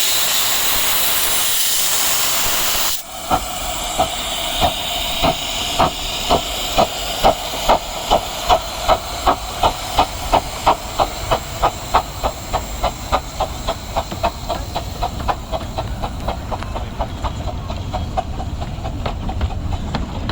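Steam locomotive starting away: a loud steady hiss of steam cuts off about three seconds in, then exhaust chuffs begin, slow at first and quickening to about three a second. The chuffs fade while a low rumble of the moving train grows.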